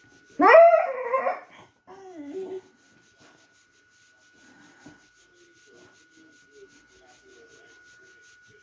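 Beagle bitch in labour crying out: one loud rising whine about half a second in, then a shorter, quieter whimper, followed by faint low snuffling sounds. A thin steady high tone runs underneath.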